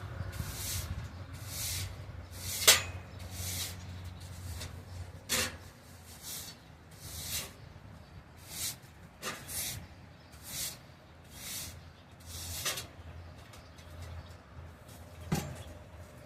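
Broom sweeping: a swishing stroke about once a second, with a few sharp knocks in between.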